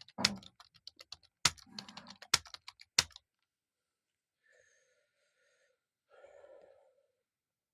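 Typing on a computer keyboard: rapid key clicks with a few much louder strokes, stopping about three seconds in.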